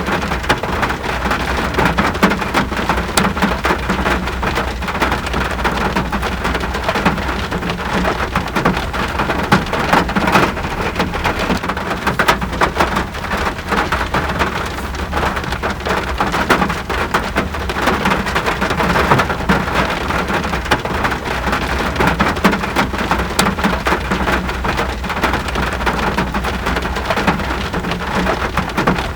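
Steady rain, a dense patter of countless drops hitting surfaces, with a low steady rumble beneath.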